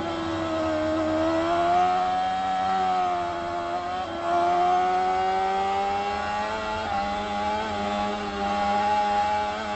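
Motorcycle engine running hard under way, its note climbing slowly and steadily with a few brief dips in pitch.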